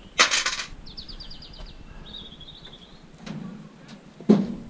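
Pieces of scrap metal being handled while sorting: a brief clattering rattle just after the start, a dull thud past the middle, and a sharp clunk near the end. Between them a small bird sings a quick high trill and then a second short phrase.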